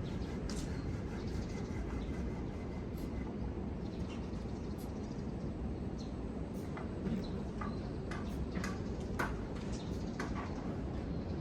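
Steady low rush of ocean surf and wind, with scattered light clicks and ticks on top.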